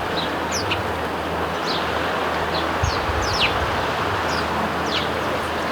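Sparrows chirping in a hedge, with many short, quick chirps that mostly fall in pitch, over a steady rushing background noise that is louder than the birds. There are a couple of low knocks about halfway through.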